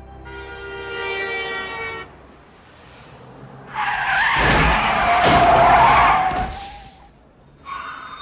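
Soft film music fades out, then car tyres screech in a skid for about three seconds, with two heavy thuds of a car striking a pedestrian. A short second screech comes near the end.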